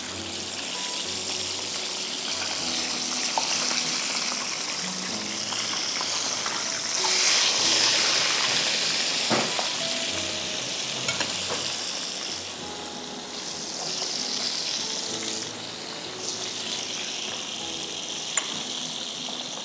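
Flour-coated chicken fillets sizzling as they fry in hot oil in a pan, the sizzle swelling about seven seconds in. A few light clicks of metal tongs against the pan as the fillets are turned.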